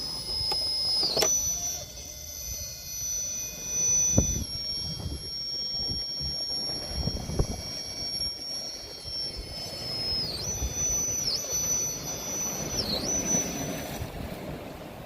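RC rock crawler with a brushless 2000kv motor and Mamba X ESC, crawling over rock. The motor gives a high, steady electric whine that steps up in pitch about a second in and dips briefly three times near the end. Under it are rough scraping sounds and a few knocks from tyres and chassis on rock, the sharpest about four seconds in.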